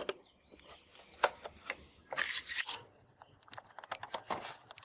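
Hands working on a plastic radio cassette recorder: a run of small sharp clicks and knocks, with a scraping rub about two seconds in and another near the end.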